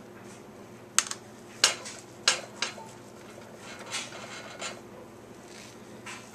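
Kitchen clatter of a knife knocking and scraping against dishes: several sharp knocks, with short scrapes in between.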